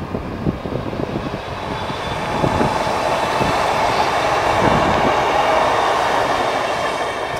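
Merseyrail electric multiple unit train passing close by on the line. Its running noise swells to a peak in the middle and eases off toward the end.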